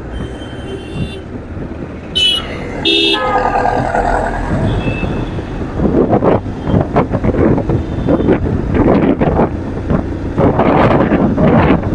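Vehicle horns honking in street traffic: a thin steady horn tone at the start, then two short toots about two and three seconds in. The second half is filled with gusty wind noise on the microphone of the moving motorcycle.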